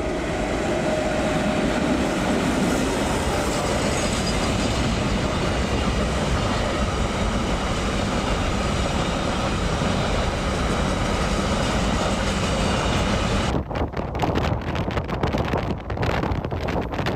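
Express train passing through at speed: a loud, steady rush of wheels and air. About thirteen seconds in it gives way to choppy gusts of wind buffeting the microphone in the train's wake.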